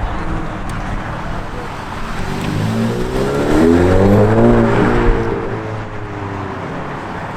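A car engine accelerates past, its note climbing to a peak about four seconds in and then falling away as it moves off, over the idle of other cars.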